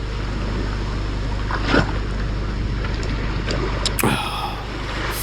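Steady rushing noise of surf, with a short vocal sound about four seconds in.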